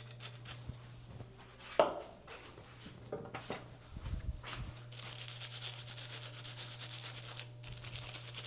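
A rag scrubbing light surface rust off a bicycle's steel bolts with cleaner and lube. A few scattered scrapes and knocks give way, about five seconds in, to fast back-and-forth rubbing strokes.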